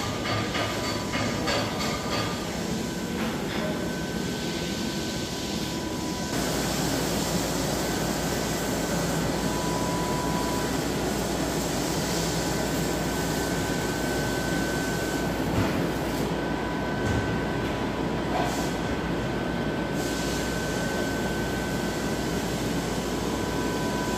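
Steady rumble and hiss of a moving train heard from on board, with faint steady high whines. The low rumble grows heavier about six seconds in.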